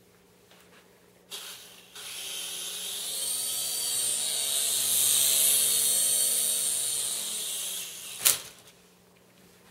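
Small electric RC helicopter's motor and rotor spinning up with a whine and rushing hiss, building to a peak about halfway, then winding down and stopping about eight seconds in. A single sharp click follows just after it stops.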